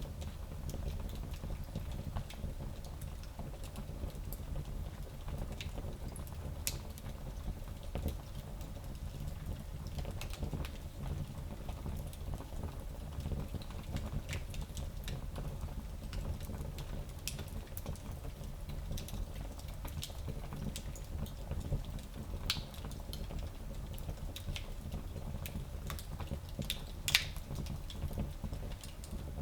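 Fire crackling in a small fireplace: scattered sharp pops and ticks over a steady low background, with the loudest pop near the end.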